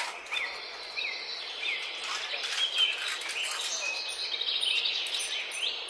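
Small birds chirping: a short note repeated every half second or so, with a few other calls, over a steady outdoor background hiss.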